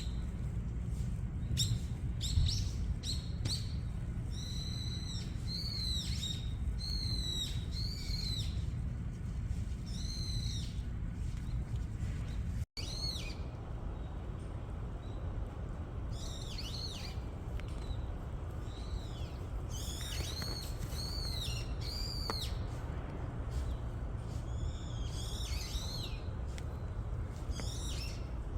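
Small birds calling: short, arching chirps repeated in quick clusters, over a steady low rumble. The sound drops out for an instant about halfway through.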